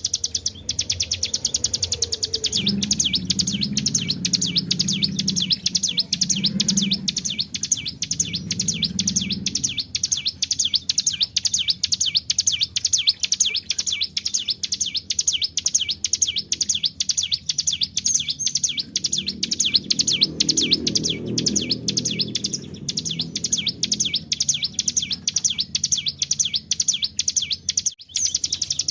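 Hill prinia (ciblek gunung) singing a long rolling trill without a break: high, rapid notes repeated many times a second, the 'ngebren' song used as a lure or master for the species.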